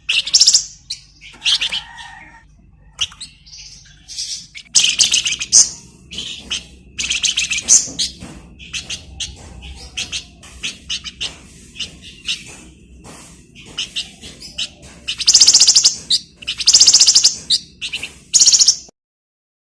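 Flamboyan songbird singing: sharp high chirps mixed with rapid, buzzing trills, the loudest long trills coming near the end. The song cuts off suddenly shortly before the end.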